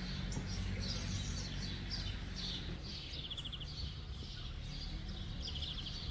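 Songbirds singing and chirping in short phrases, with a quick rapid trill about three seconds in and another near the end, over a steady low rumble.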